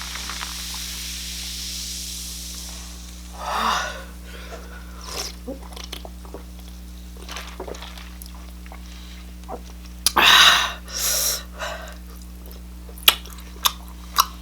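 A person's sharp breaths and sniffs, loudest in two bursts near the start and about ten seconds in, with small wet chewing and lip clicks near the end, typical of a reaction to spicy noodles. A steady low electrical hum runs underneath.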